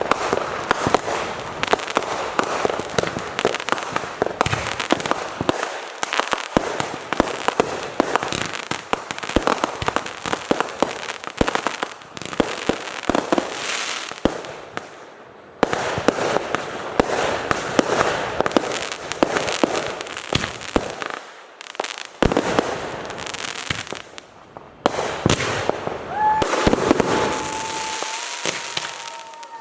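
Fireworks going off in quick succession: dense, rapid pops and crackles with a few brief lulls.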